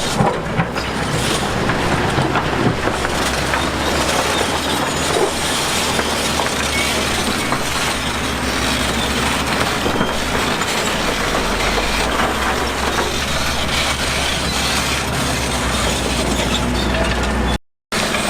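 Heavy earthmoving machinery working: a steady diesel engine drone under continuous clattering and grinding. The drone drops in pitch about two-thirds of the way through, and the sound cuts out for a moment near the end.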